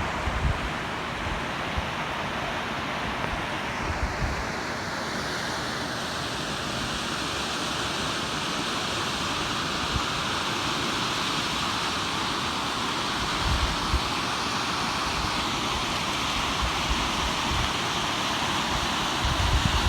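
Steady rushing of falling water from a waterfall; the hiss shifts lower about five seconds in. Wind bumps the microphone now and then.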